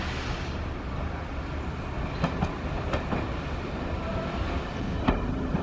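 Mk1 railway coach running along the line: a steady low rumble, with the wheels clicking over rail joints several times in the second half.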